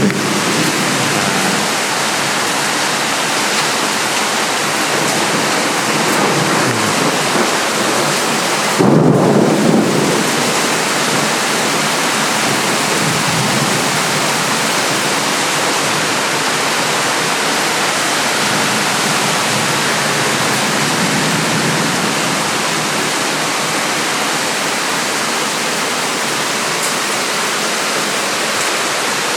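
Heavy rain pouring down steadily in a thunderstorm, a dense even hiss, with one brief louder low burst about nine seconds in.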